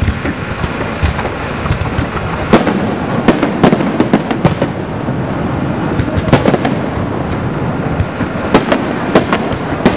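Aerial fireworks going off: continuous crackling with a rapid series of sharp bangs, heaviest from about two and a half to four and a half seconds in and again in the last couple of seconds.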